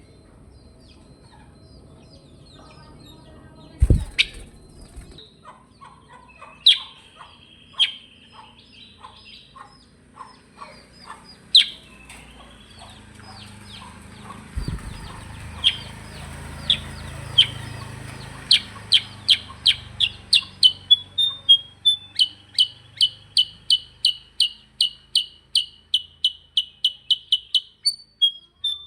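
Silver-eared mesia singing: scattered chirps and short whistles, then, from about two-thirds of the way in, a long, fast run of loud, sharp repeated notes. A brief thump sounds twice, near the start and around the middle.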